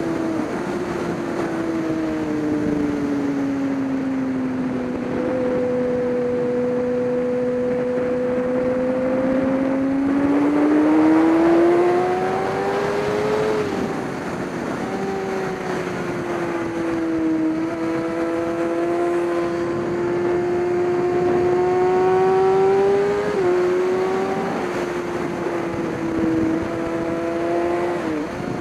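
Race motorcycle engine under way, its pitch sinking slowly, climbing as it accelerates, then holding fairly steady, with quick drops in pitch at gear changes about two thirds of the way through and near the end. A steady rushing noise runs underneath.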